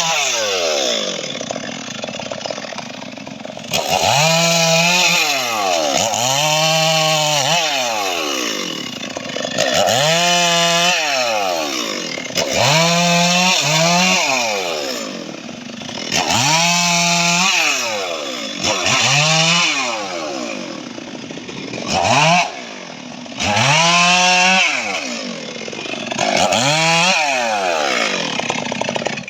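Chainsaw cutting mahogany wood, its engine revved up and let fall back again about a dozen times as the blade works into the cut.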